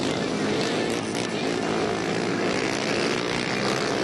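Racing quad engines running hard at full throttle, their pitch rising and falling as they accelerate; among them a four-cylinder Yamaha 600-powered quad that is missing and not running smooth.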